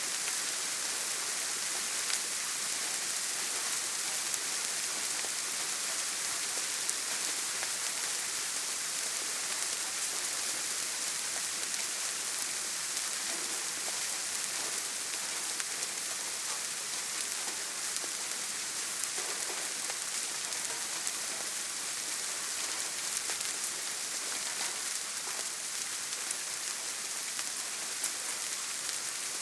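Heavy rain falling steadily on a tin roof: an even hiss with faint scattered drop ticks.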